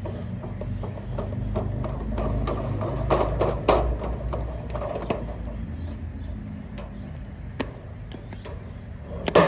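Hands patting and handling seasoned raw pork steaks: irregular soft taps and knocks, busiest about three to four seconds in, with single taps later, over a steady low rumble.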